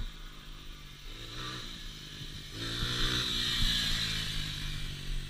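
Small dirt bike engine revving up as the rider opens the throttle twice, the second pull about halfway through the loudest, then settling back.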